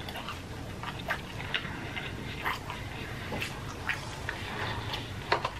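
A person chewing a mouthful of food, with scattered short wet mouth clicks and smacks.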